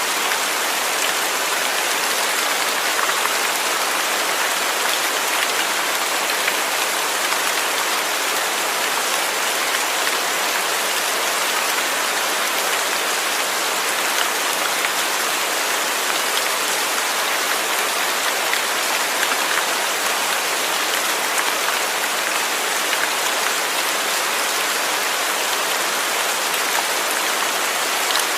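Steady rain falling, a dense even patter of drops on a surface with no letup.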